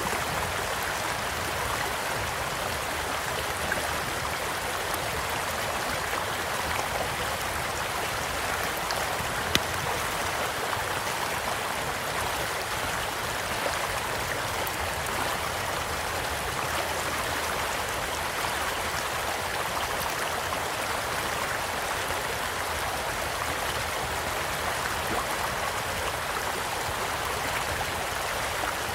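Stream flowing steadily, with scattered sharp crackles and pops from a campfire; the loudest pop comes about a third of the way in.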